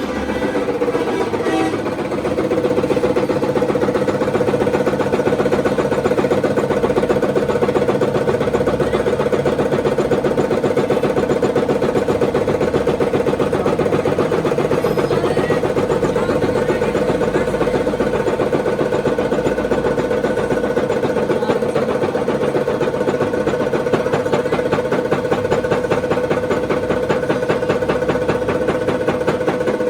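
A 260 tractor's diesel engine running steadily with a rapid, even rattling knock, which the mechanic attributes to knocking cylinder sleeves.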